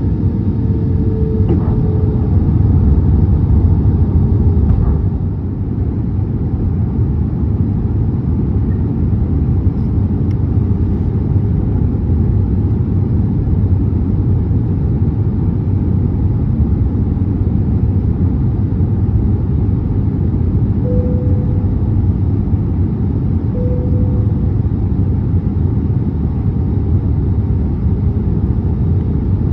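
Airbus A320neo cabin noise: a steady low rumble of engines and airframe, louder for the first few seconds and easing about five seconds in.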